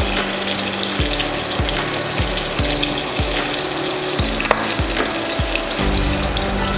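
Salmon fillet sizzling as it fries in hot melted butter and oil in a pan: a steady frying hiss. A low regular beat about every half second runs underneath.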